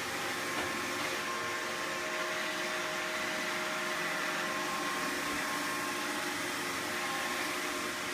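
Roomba robot vacuum cleaner running steadily, its motor and brushes giving an even whirring hum with a faint steady whine.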